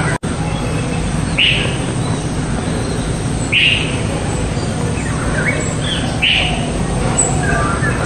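Bird chirping in short single calls about every two seconds, with a few softer chirps between, over a steady low background noise.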